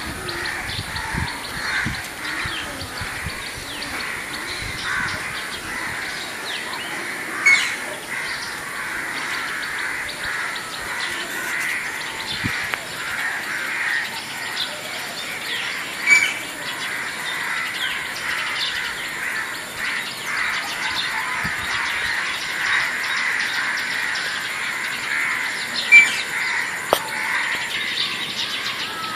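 Many birds chirping and calling together in a dense, steady chorus, with a few brief louder calls standing out.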